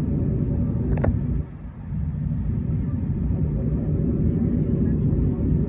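Steady low rumble heard from inside the cabin of an Airbus A321neo airliner taxiing after landing, with one sharp click about a second in and a brief dip in the noise shortly after.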